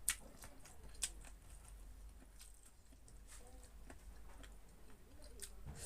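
A person eating, with chewing and mouth noises as scattered small clicks, and two sharp louder clicks in the first second.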